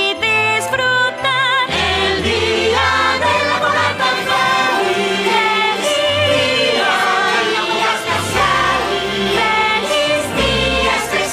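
Song reprise: several voices singing held notes with vibrato, then a fuller instrumental backing with a bass line comes in about two seconds in under the continuing choral singing.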